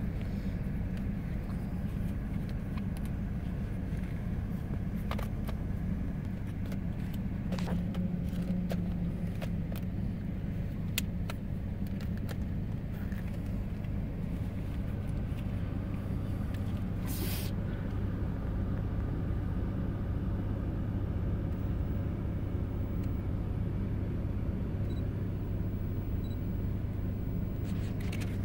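A car's engine running, heard from inside the cabin: a steady low hum, with scattered light ticks and a brief hiss about seventeen seconds in.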